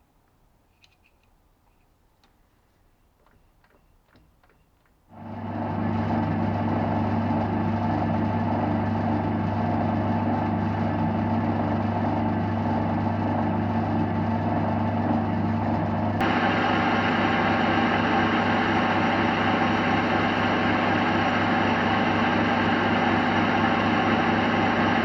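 A lathe starts about five seconds in and runs steadily with a low hum. Around the middle it gets brighter and harsher, typical of a cut or a speed change, and it keeps running to the end. The first seconds hold only a few faint clicks.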